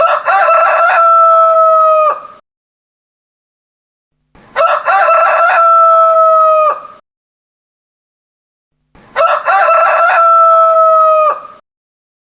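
A rooster crowing three times, about every four and a half seconds, each crow a couple of short opening notes followed by a long held note that drops off at the end.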